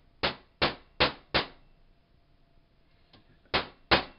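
Hammer striking a metal part, six sharp blows: four in quick succession at about three a second, a pause, then two more near the end.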